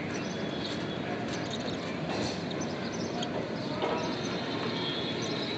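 Budgies giving faint, scattered chirps and chatter over a steady low rumble of background noise.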